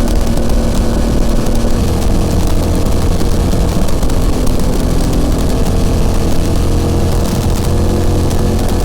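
BMW F900XR's parallel-twin engine and exhaust running while riding, the engine note shifting in pitch a few times as engine speed changes, with wind rushing over the microphone.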